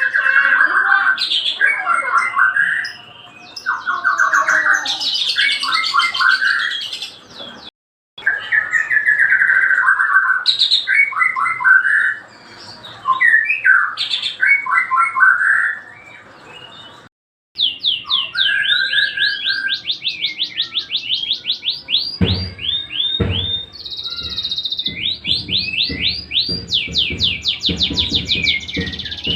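White-rumped shama singing a loud, varied song of whistled phrases and quick trills, broken by two short gaps. In the second half it changes to long runs of fast repeated notes, with a few low thuds underneath.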